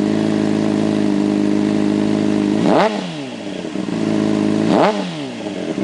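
Honda CBR600RR inline-four with an aftermarket exhaust idling steadily, then blipped twice, each time quickly revved to about 5,000 rpm and dropping straight back to idle.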